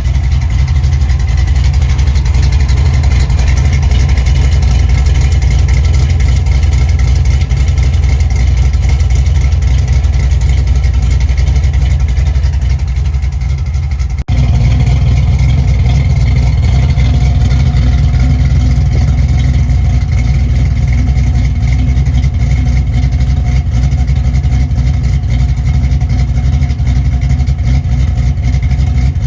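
A 1997 Chevy S10's swapped-in 5.3 L iron-block LS V8 running steadily with a deep, loud rumble, with a momentary drop about halfway through.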